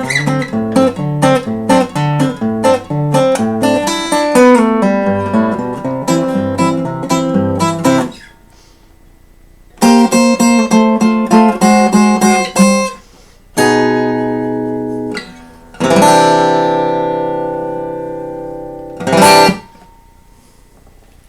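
Solo acoustic guitar played fingerstyle in Travis picking, an alternating thumb bass under picked melody notes. After a pause the pattern returns briefly, then gives way to held chords left ringing and fading, and one short final strum near the end.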